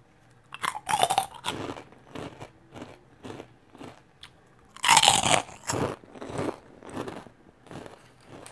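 Crispy puffed pork-skin crackers being bitten and chewed. There are two loud crunchy bites, about a second in and about five seconds in, and each is followed by a run of chewing crunches that fade.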